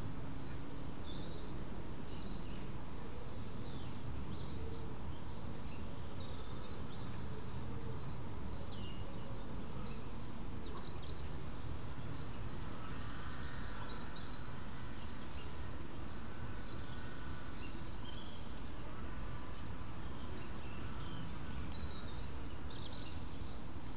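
Songbirds singing, with many short high chirps and notes scattered throughout, over a steady low rumble.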